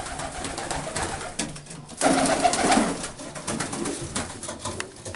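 Pigeons cooing in a coop, with scattered clicks and rustling. The cooing is loudest about two seconds in.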